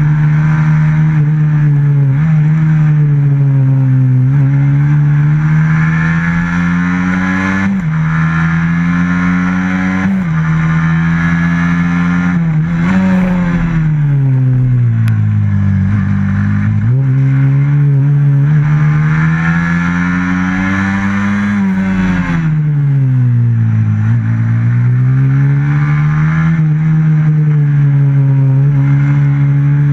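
On-board sound of a racing motorcycle's stock FXR150 engine at full pace, its note climbing and falling with the throttle. It jumps suddenly in pitch twice about eight and ten seconds in, and twice sinks low as the bike slows for a corner before pulling hard again.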